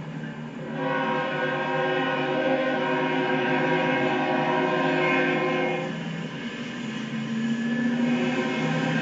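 Locomotive air horn sounding a long blast: a steady chord of several tones starting about a second in and easing off near six seconds, with lower tones carrying on after.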